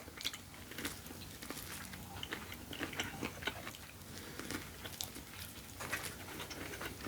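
Close-miked eating: a person biting and chewing corn on the cob seasoned with Cajun spice, a string of faint crunches and clicks.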